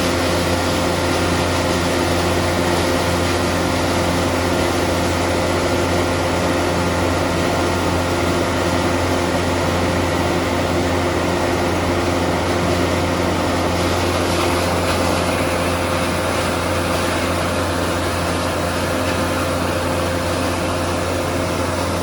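Diesel-engine-driven wood crusher running steadily: a constant mechanical drone of engine and machinery with a few steady tones over a broad noise.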